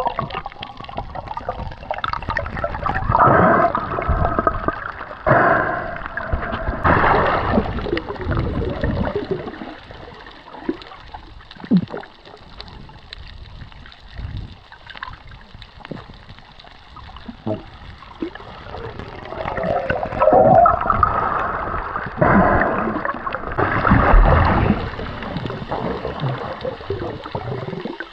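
Sea water sloshing, splashing and gurgling around a snorkeller in the water. There are surges of sloshing in the first few seconds and again about two-thirds of the way through, with quieter stretches and scattered small pops between.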